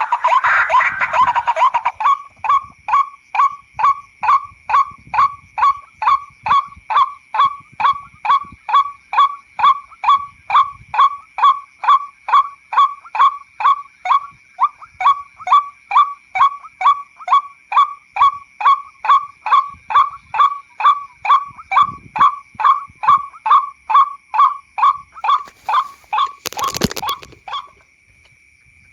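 White-breasted waterhen call played as a hunting lure: one note repeated over and over about two and a half times a second, with a steady high tone underneath. It begins as a denser jumble of calls, and a brief rustling noise cuts across it near the end.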